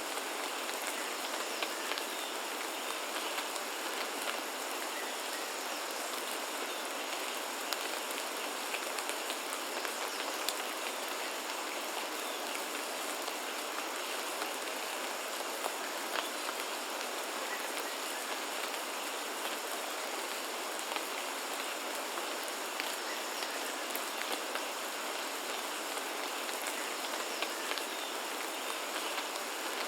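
Steady, even rainfall, with individual drops ticking close by.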